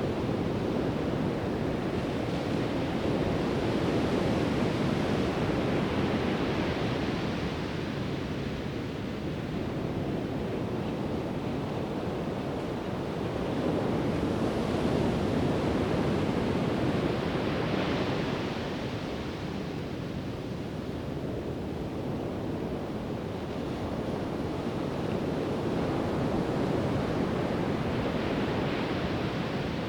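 Pacific Ocean surf: waves breaking and washing up the beach in slow surges that swell and ease roughly every ten seconds.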